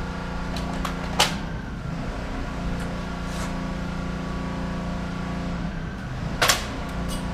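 Two sharp snaps of an airsoft BB gun firing, one about a second in and one near the end, over a steady machine hum.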